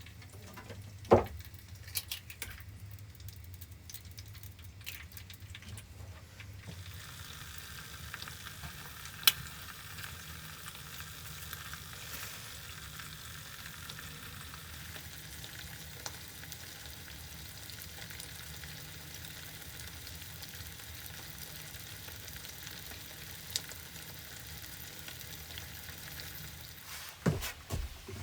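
Food sizzling in a frying pan: a steady crackling hiss that starts about six seconds in and keeps going. A few sharp knocks stand out, two near the start and one near the end.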